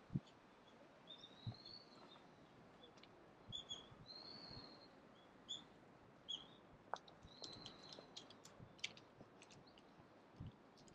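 Small birds chirping, quiet: scattered short high notes and a few rising-and-falling calls, with a quick flurry of chirps around the middle. A few soft low thumps sound now and then.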